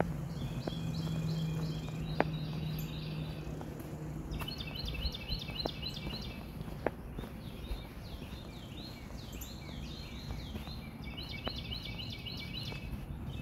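Songbirds singing in several phrases of quickly repeated high chirping notes, with a low steady hum in the first few seconds and a few faint sharp clicks.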